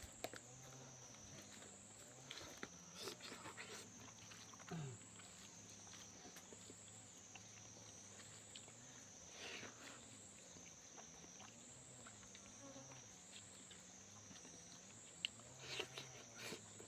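Faint eating sounds: scattered clicks and brief chewing noises from someone eating a meal. Behind them runs a steady high whine that rises and falls about once a second.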